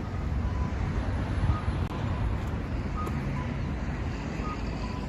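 Steady low rumble of road traffic, with a few faint short high tones over it.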